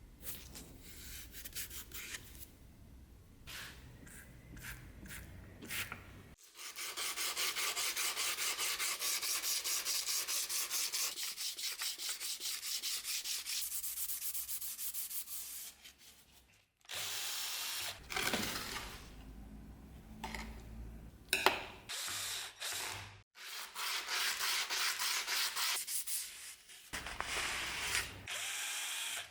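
Hand rubbing with an abrasive on the knife, in quick, even back-and-forth strokes that pause a couple of times and resume.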